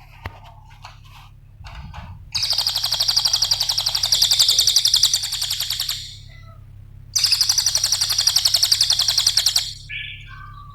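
Cililin songbird singing: a few soft scattered chirps, then two long, very fast, high-pitched trills of about three and a half and two and a half seconds, with a few short notes after the second. A steady low hum runs underneath.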